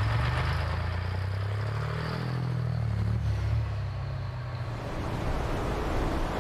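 Racing truck's engine running hard, its pitch rising about two seconds in and falling away again a couple of seconds later, over a steady rush of noise.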